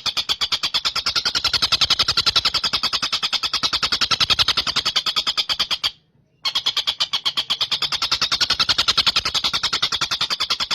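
Tengkek buto kingfisher calling in a long, rapid rattling trill of evenly repeated high notes, about ten a second. It breaks off for about half a second roughly six seconds in, then resumes.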